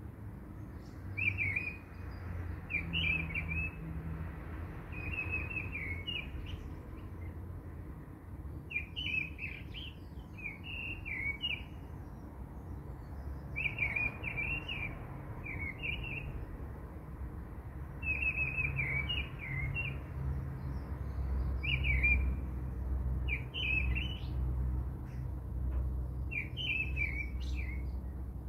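Small birds chirping in short, repeated twittering phrases every second or two, over a steady low hum.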